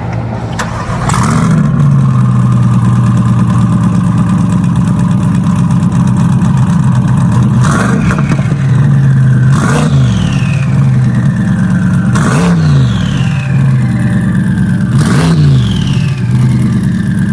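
Cold start of a twin-turbo Chevrolet Corvette C8's 6.2-litre V8: it fires about a second in and settles into a loud, steady idle. Four short throttle blips follow later on, each trailed by a falling whistle.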